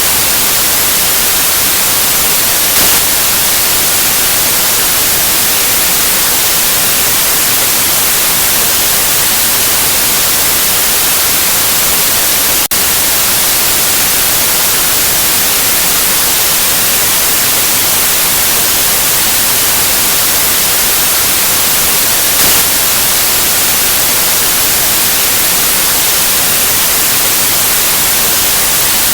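Continuous white noise: a loud, even hiss with no pitch, with one very brief dip in level about halfway through.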